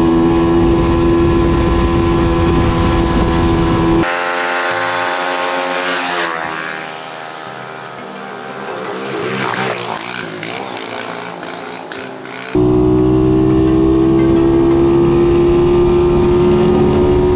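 125cc pit bike engine running loud at steady speed along a road. About four seconds in, the sound cuts abruptly to a thinner, quieter engine sound whose pitch falls, then wavers, with a few sharp clicks. Near the end it cuts back to the full engine note, slowly rising in pitch.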